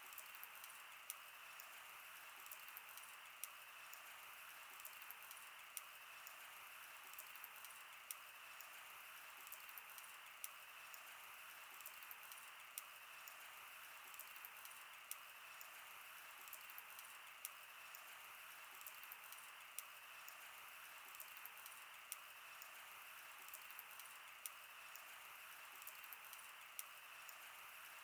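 Wood campfire burning, with irregular sharp crackles and pops over a faint steady hiss.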